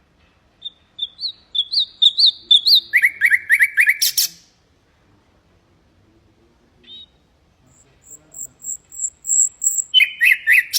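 Common nightingale singing in separate phrases: a quick series of rising notes, then a lower run of repeated notes ending in a short rattle. After a pause of a few seconds comes a high, thin, pulsing note, then another rapid phrase of repeated notes near the end.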